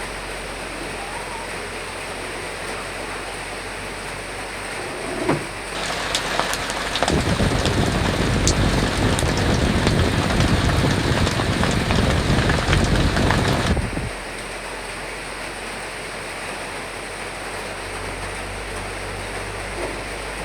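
Steady rain with wind washing over it. About six seconds in, a louder, heavier spell of rain with sharp drop taps starts suddenly, then cuts off just as suddenly about fourteen seconds in, back to the softer steady rain.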